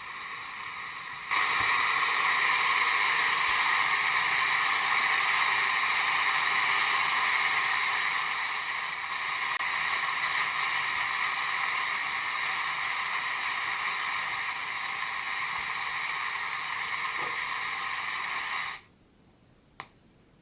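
Steady hissing noise that gets louder about a second in and cuts off sharply near the end, followed by a single click.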